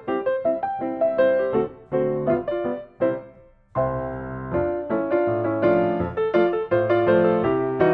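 Background piano music in a jaunty silent-film accompaniment style, quick struck notes with a brief pause about halfway through.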